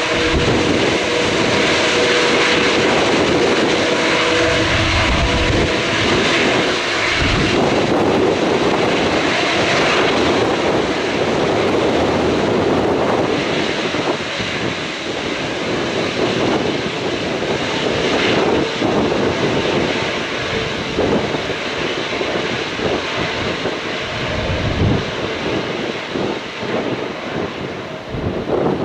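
Jet airliner engines running with a loud, steady roar. A steady tone shows in the first few seconds. Wind buffets the microphone in irregular gusts.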